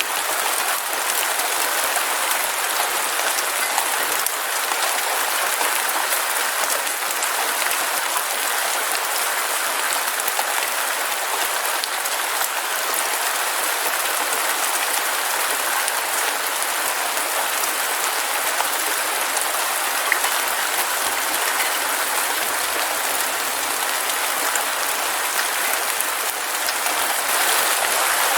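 Heavy rain falling steadily, a dense, even hiss of countless drops with no thunder heard.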